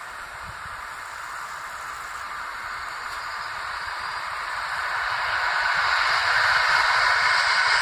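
Approaching orange electric multiple-unit train: the rushing hiss of its wheels on the rails, growing steadily louder as it nears.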